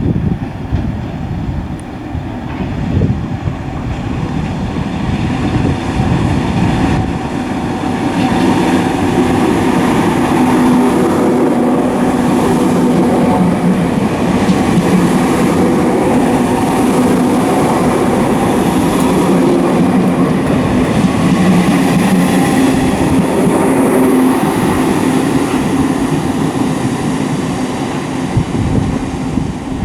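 Merseyrail Class 507/508-type electric multiple unit at a station platform, its motors and equipment giving a steady hum that builds over the first several seconds and holds. Wind buffets the microphone at the start.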